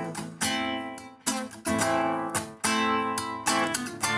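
Acoustic guitar strummed in chords, with a fresh strum about every second.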